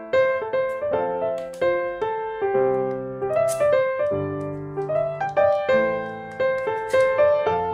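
Background piano music: a melody of struck notes, each ringing and fading.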